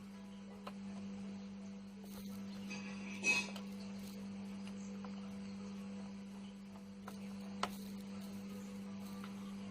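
Soldering on a keyboard circuit board: a few light clicks and taps of the iron and solder wire against the board over a steady hum, with one brief, louder, higher sound about three seconds in.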